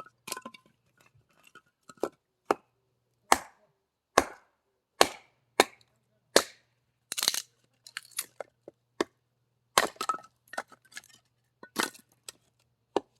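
Axe chopping wood into short pieces: a run of sharp cracks at irregular spacing, about one or two a second.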